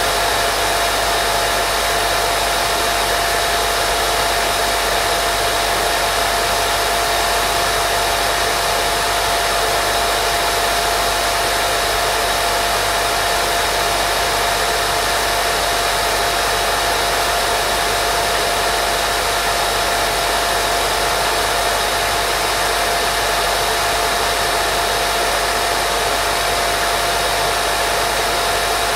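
Steady white noise for baby sleep: an even, unchanging hiss with a thin steady tone in the middle.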